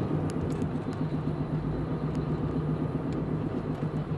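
Car driving at highway speed, heard from inside the cabin: a steady low engine and road hum with a few faint clicks.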